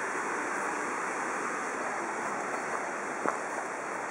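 Steady rush of a mountain stream, with a single sharp click about three seconds in.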